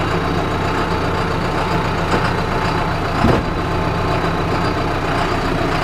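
John Deere tractor's diesel engine running steadily while it handles a chipper feed wheel yoke, with one short louder sound about three and a half seconds in.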